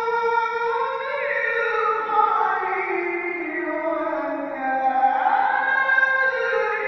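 A qori's voice reciting the Quran in melodic tilawah style: long held notes with ornamented glides, the melody sinking lower through the phrase.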